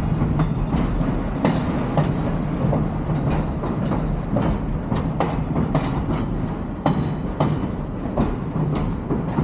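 Train rolling along the track: a steady rumble with wheels clicking irregularly over rail joints, about one or two clicks a second.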